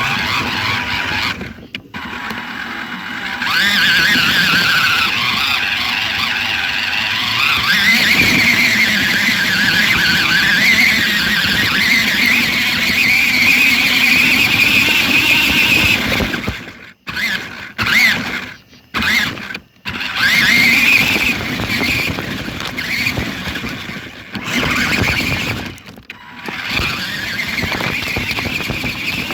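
Small electric motor and gears of an Adventure Force toy Jeep Wrangler RC car whining as it drives, the pitch rising and falling with speed. It cuts out briefly several times in the second half as the throttle is let off.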